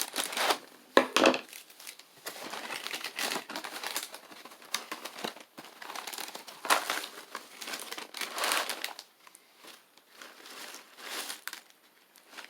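Plastic inner bag of a cereal box being crinkled and pulled open, irregular bursts of rustling with a loud sharp snap about a second in, quieter toward the end.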